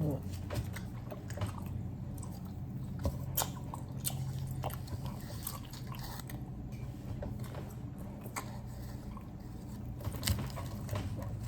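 Wet chewing and smacking of a huge mouthful of chewing gum, about a dozen pieces at once, with scattered short clicks and squelches.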